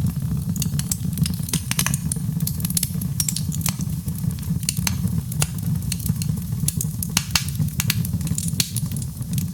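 Fire burning in a fireplace: a steady low rumble of the flames under many sharp, irregular crackles and pops.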